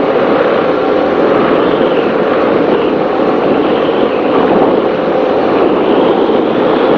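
Offshore racing powerboat running at high speed: a steady, loud drone of the engines mixed with rushing wind and water.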